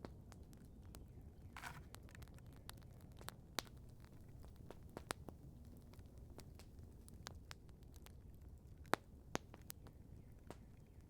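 Wood campfire crackling softly: scattered sharp pops and ticks at irregular intervals over a low steady rumble, the sharpest pop about nine seconds in.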